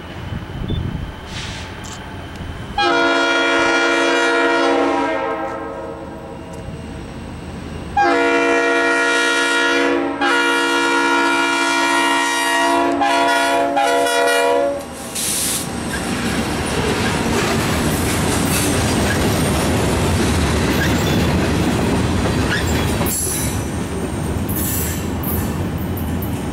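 Norfolk Southern SD40-2 diesel locomotive sounding its air horn in three long blasts, the last the longest. Then the locomotive and its short freight train roll by close, the engine running under the noise of steel wheels on the rails.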